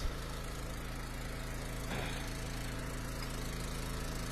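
Eastonmade wood splitter's engine running steadily at full throttle, a constant even drone.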